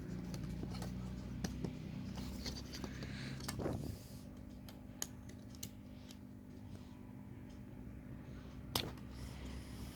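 Plastic model-kit parts being handled and pushed together: scattered light clicks and scrapes, with one sharper click near the end, over a faint steady hum.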